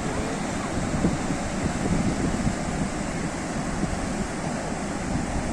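Sea surf washing steadily, with a low rumble of wind on the microphone.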